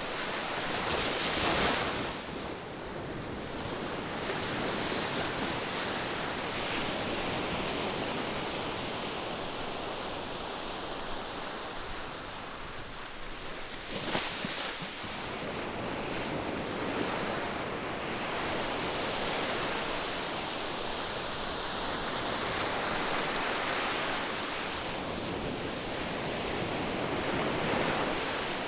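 Ocean surf washing onto the shore in a steady, distant rush of waves, with two brief louder surges: one about a second and a half in, the other about halfway through.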